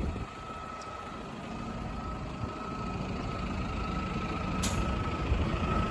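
Dump truck's engine running and slowly growing louder, with a steady high whine running through it.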